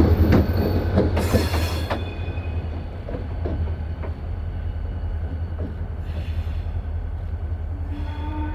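Train rolling by over a steady low rumble, with faint wheel clicks over rail joints and a brief burst of hiss a little after a second in; the sound eases off after the first couple of seconds.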